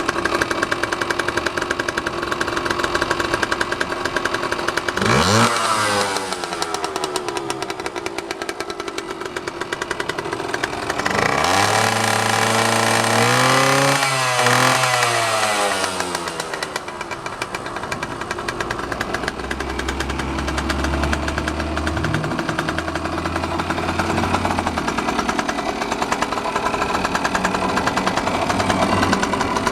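Yamaha GT50 Mini Trail's small two-stroke single-cylinder engine running just after starting. It is blipped briefly about five seconds in, then revved up and held for several seconds around the middle before dropping back to idle.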